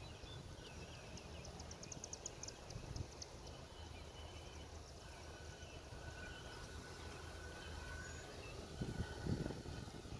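Birds chirping and trilling over a low, steady outdoor rumble, with a few low thumps about nine seconds in.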